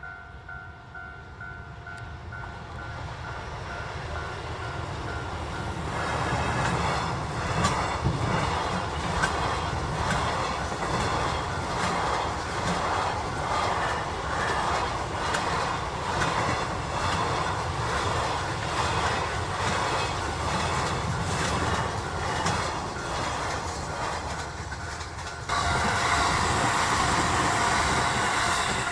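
A train passing close by, its wheels clattering over the rail joints; the sound builds over the first few seconds. Near the end it changes suddenly to a steadier loud rushing sound with a steady high tone.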